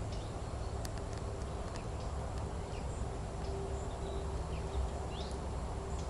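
Outdoor forest ambience: a steady low rumble with faint, scattered short bird chirps and a few soft clicks.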